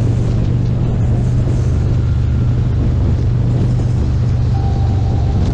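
Harley-Davidson Street Glide Special's V-twin engine running at a steady, even drone while the motorcycle is ridden, with no revving.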